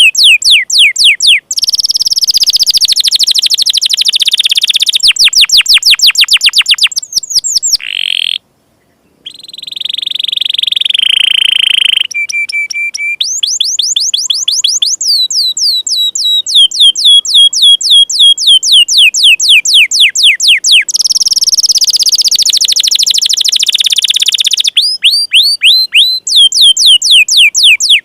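Canary (kenari) singing a loud, fast 'door'-style song: rolls of rapid repeated downward-sweeping chirps, broken by a short pause about eight seconds in and a brief held steady whistle a few seconds later.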